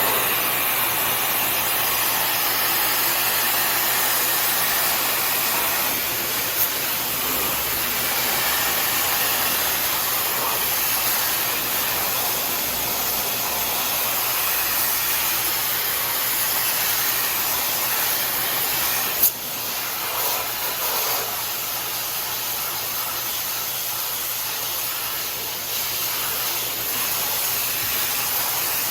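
High-pressure water spray hissing steadily as it washes a wall-mounted air conditioner's indoor unit after a chemical treatment, with a steady low motor hum underneath. A brief click about two-thirds of the way through, after which the spray is a little quieter.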